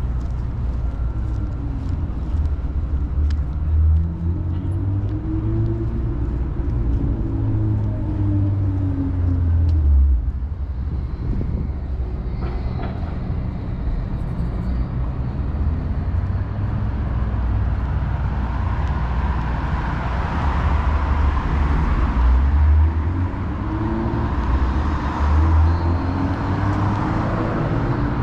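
Downtown city street traffic: engines of passing cars and buses rumbling low and rising and falling in pitch. A louder vehicle passes about two-thirds of the way in.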